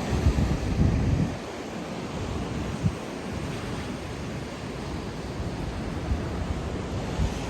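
Black Sea surf washing onto the beach, with wind buffeting the microphone in low rumbling gusts, strongest in the first second or so and again near the end.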